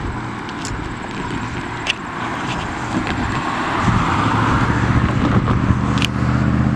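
Street traffic: a car going by, getting louder about four seconds in, when a steady low engine hum sets in. A few sharp clicks on top.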